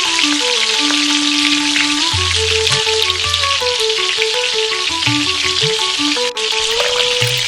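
Food frying in hot oil in a miniature pan, a steady sizzle with a dense crackle, over background music playing a simple melody.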